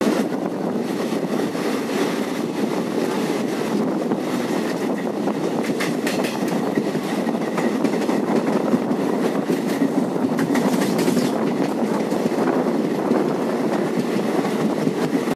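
Passenger train running at speed, heard from an open coach door: a steady rumble of wheels on rails, with occasional sharp clacks.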